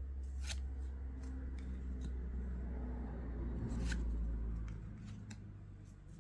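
One Piece trading cards being handled and slid off one another as a freshly opened pack is flipped through, with soft rustles and a few sharp card flicks, the clearest about half a second in and about four seconds in. A low rumble runs under it and dies away a little before the end.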